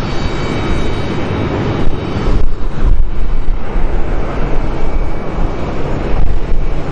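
Jet engines of a landing Boeing 737: a loud, steady rushing rumble, with the upper hiss dipping briefly about two and a half seconds in.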